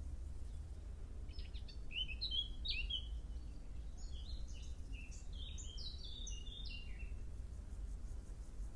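A small songbird singing two quick runs of varied chirping notes, the second longer, over a steady low background rumble.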